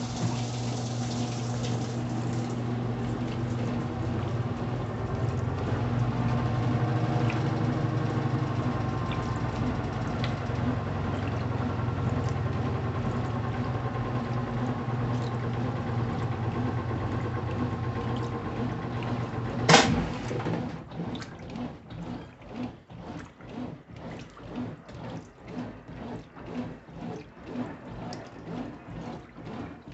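Brastemp Intelligent 7 kg washing machine working with water: a steady motor or valve hum under rushing water. About two-thirds of the way in comes one sharp clunk, and after it the water sloshes in quick, even pulses, about two a second.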